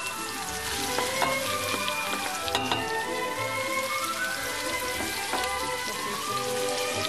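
Sliced onions sizzling as they fry in a stainless steel pot, with a few clicks from the onions being stirred and scraped in, over background music.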